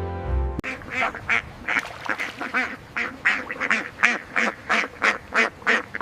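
A duck quacking in a quick, steady series of short calls, about three a second, beginning about half a second in as background music cuts off.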